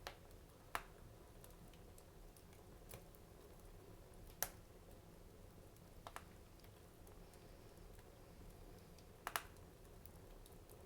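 Wood fire crackling in a fireplace: a few scattered sharp pops over a faint low hiss, the loudest about four seconds in and a quick double pop near the end.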